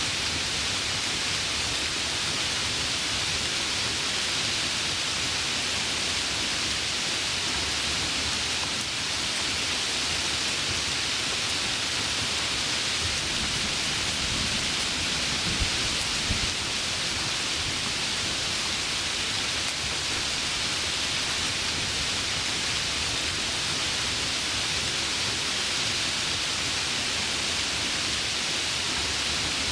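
Heavy rain falling in a steady hiss, with a low rumble of thunder building about halfway through and peaking briefly before fading back under the rain.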